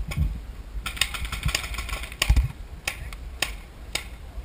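Paintball markers firing: sharp pops at irregular intervals, roughly one every half second, over a low rumble.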